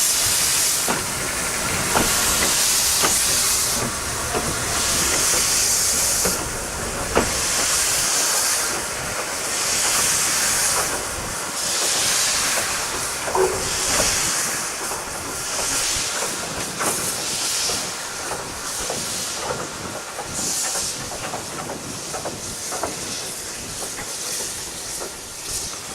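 Victorian Railways R-class steam locomotives working, their exhaust chuffing slowly with loud hissing bursts about every two seconds, gradually growing fainter.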